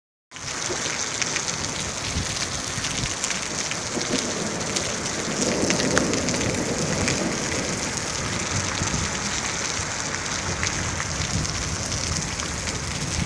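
Steady rain falling: a constant hiss of rain with many fine ticks of individual drops striking a surface. It starts abruptly just after the beginning.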